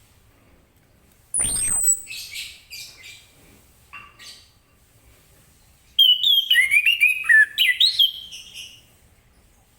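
Orange-headed thrush singing: a loud falling whistle about a second in, then short broken phrases, and a longer, louder run of quick, varied notes about six seconds in.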